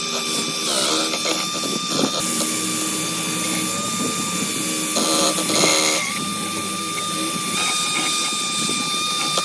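A power tool running steadily: a constant high whine over a rough, hissing grind, with the lower work noise changing now and then as the tool meets the part.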